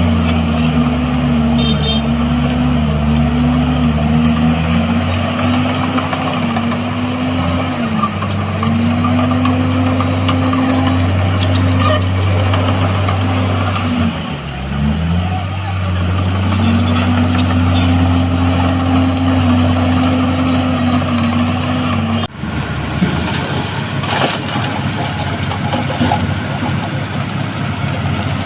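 Heavy diesel engine of earthmoving machinery running under load, its pitch wavering and dipping briefly about halfway through. A few seconds before the end the sound switches abruptly to a rougher, noisier engine sound.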